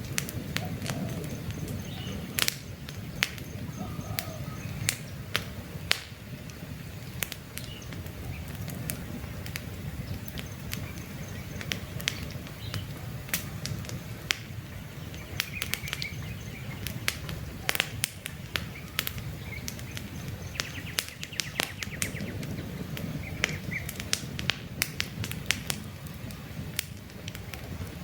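Wood campfire burning with a steady low rush and irregular sharp crackles and pops. Faint bird chirps come through now and then.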